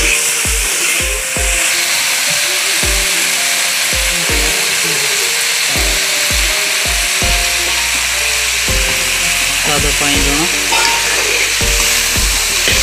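Potato sticks sizzling steadily in hot oil in a metal wok while a metal ladle stirs them, over background music with a steady beat.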